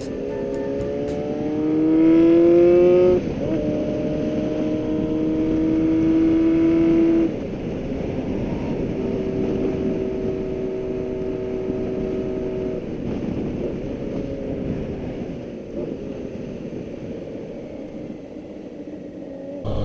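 Stearman biplane's radial engine and propeller running, heard from the open cockpit with wind noise. The engine pitch rises over the first few seconds, then holds steady. The sound changes abruptly about 3 and 7 seconds in and carries on somewhat quieter with a steadier drone.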